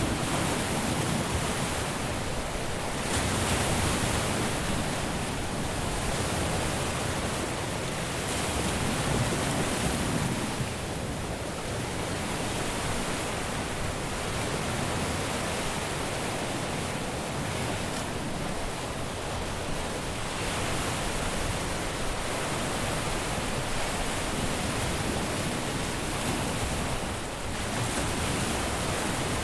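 Caribbean sea surf washing onto a beach: a continuous hiss of breaking waves that swells and eases every few seconds.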